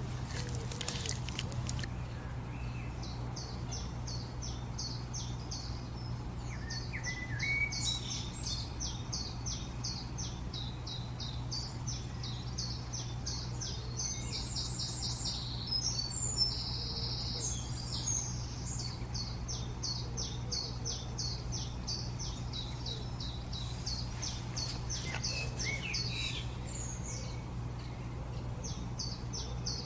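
Songbirds singing: quick runs of repeated high chirps and trills, one after another, over a steady low hum.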